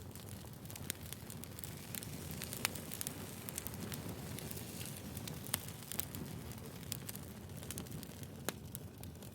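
Wood fire burning: a steady low rustling bed of flame with sharp crackles and pops from the firewood every second or so.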